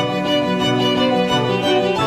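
Music led by bowed strings, violin to the fore, playing sustained notes.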